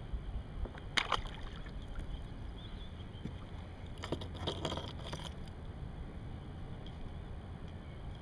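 Kayak on the water: a steady low rumble, with a sharp knock about a second in and a run of clicks and knocks around four to five seconds.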